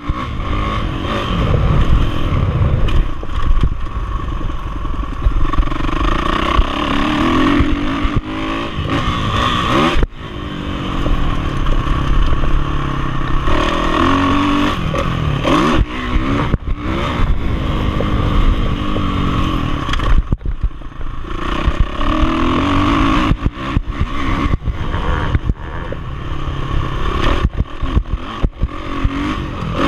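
Kawasaki motocross bike's engine heard from onboard, revving up and down as the rider works the throttle around the dirt track. The throttle is chopped sharply about 10 seconds in and again about 20 seconds in.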